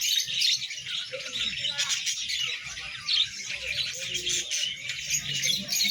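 Many small caged songbirds chirping and twittering at once in a dense, unbroken chorus of short high calls.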